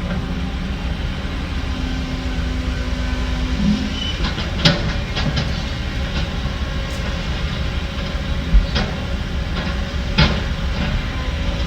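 Heavy diesel earthmoving machinery running steadily with a low rumble, with several sharp metallic clanks and knocks through it, the loudest about halfway and near the end.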